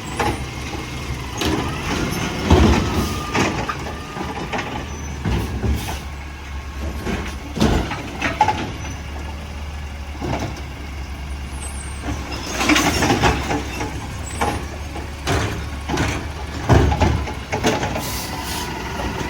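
Mack garbage truck's diesel engine running steadily, with repeated clanks and bangs and a hiss of air, typical of a truck at work collecting and packing trash.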